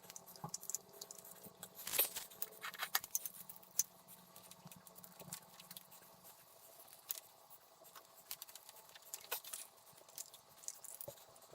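Faint, scattered small clicks and taps from handling things by hand, irregular, with the loudest about two seconds in.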